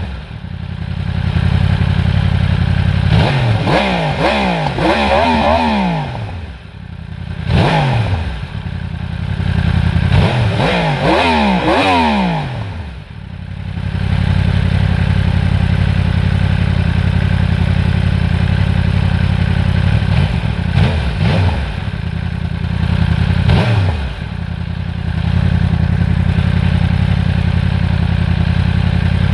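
Yamaha R1's crossplane inline-four through an Akrapovič slip-on exhaust, idling steadily and revved several times, each rev rising quickly and falling back to idle. The longest revs come a few seconds in and again about ten seconds in, with a short blip between them and two smaller blips in the second half.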